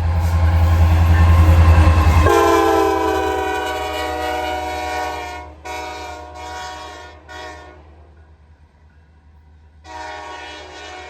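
Air horn of two diesel locomotives running light, sounding for a grade crossing as they pass close by. A long blast with the engines' deep rumble drops in pitch and loses the rumble about two seconds in as the locomotives go past. Two shorter blasts follow, then a pause of about two seconds and another blast near the end.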